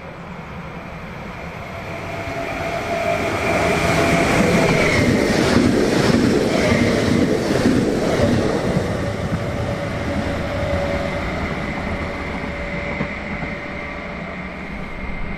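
A train passing by: it builds up, is loudest a few seconds in, then slowly fades. A steady whine drops in pitch as it goes past, and the wheels clatter faintly while it is loudest.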